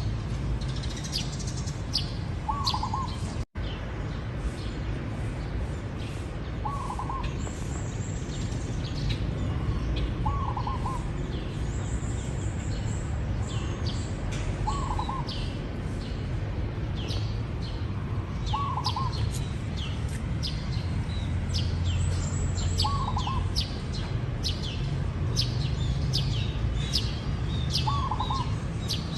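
Zebra dove cooing a short rolling phrase about every four seconds, seven times, over constant quick high chirping from smaller birds.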